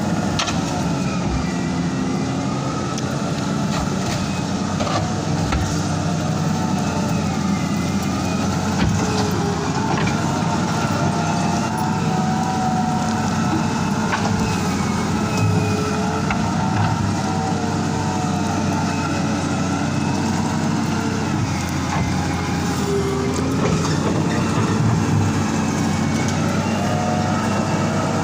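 Kawasaki wheel loader's diesel engine running under load on a slippery climb, its pitch wavering up and down as the revs change.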